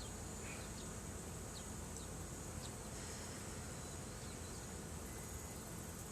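Steady high-pitched chorus of insects, with a few faint short ticks scattered through it.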